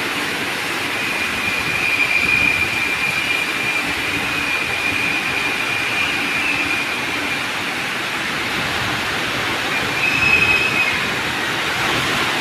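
BTS Skytrain EMU-B3 electric train running on the rails, with a steady rolling rumble. Its wheels give a high-pitched squeal that swells about two seconds in and again briefly near the end.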